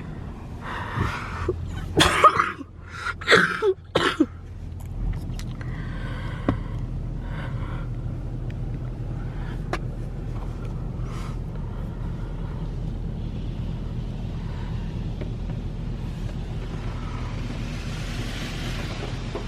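Touch-free automatic car wash heard from inside the car: pre-soak spray hissing against the body over a steady low hum of the wash machinery and idling car. Several loud, short bursts fall in the first four seconds.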